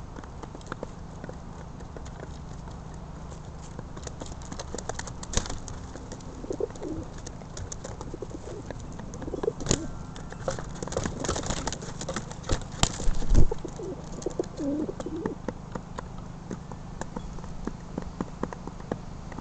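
Pigeons cooing: a few low, wavering coos over many small clicks and taps, with one louder thump about thirteen seconds in.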